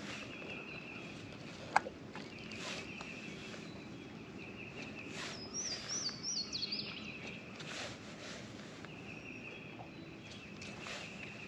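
Birds singing: a repeated high trill, and a quick run of stepping, falling notes about five seconds in. A single sharp click comes near two seconds in.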